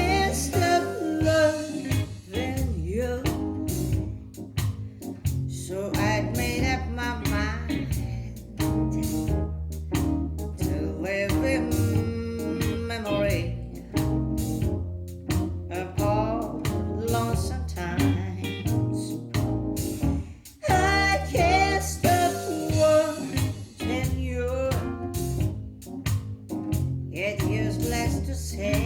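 A song with a singing voice over a bass line and percussion, played back through Polk XT20 bookshelf speakers driven by a Marantz Stereo 70 stereo receiver as a sound demonstration.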